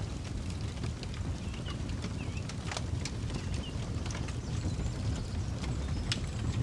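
Wood campfire crackling, with irregular sharp pops over a steady low rumble. A few short high chirps come through around two to four seconds in.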